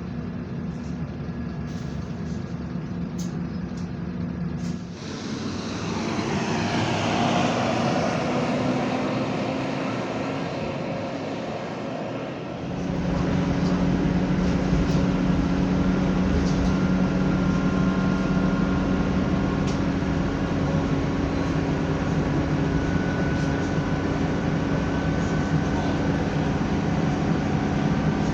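Scania Enviro 300 bus's diesel engine heard from on board, running steadily. A sudden rush of noise about five seconds in. From about halfway the engine note gets louder and stronger as the bus drives under power, and stays steady.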